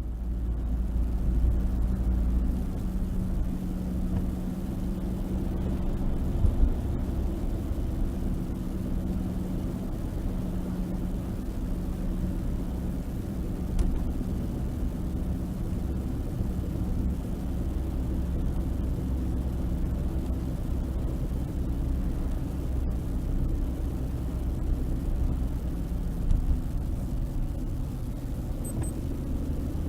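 Suzuki Hustler driving along: a steady low drivetrain and road rumble with a droning tone that swells and fades. This is the abnormal drivetrain noise that began after a lift-up suspension was fitted; the owner suspects the raised suspension but has not pinned down the source.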